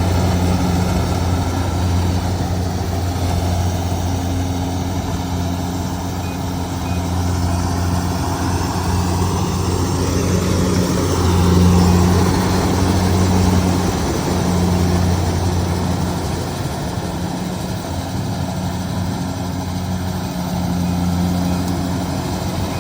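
Kubota DC70G Plus combine harvester's diesel engine running steadily, with a slight swell in level about halfway through.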